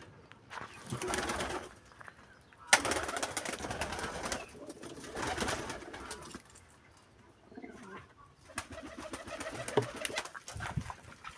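Pigeons or doves cooing, among bouts of rustling noise and a sharp click a little under three seconds in.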